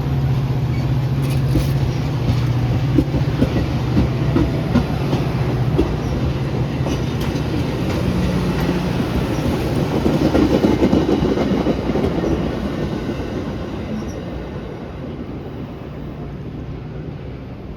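A train running along the tracks, its wheels clicking over the rail joints above a steady low hum. The sound fades away over the last several seconds as it moves off.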